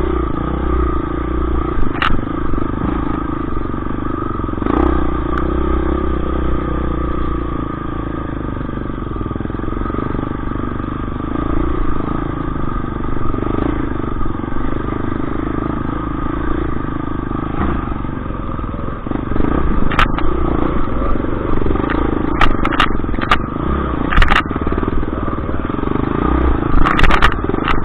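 Motorcycle engine running steadily at a fairly even pitch, with a few sharp clicks or knocks in the last third.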